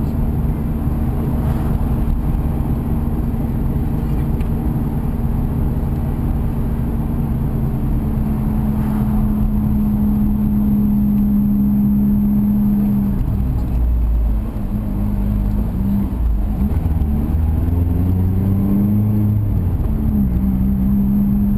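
Mazda MX-5's four-cylinder engine heard from inside the cabin, pulling steadily with its pitch slowly creeping up. About two thirds of the way through the pitch drops sharply, then rises and falls with throttle changes for the last several seconds.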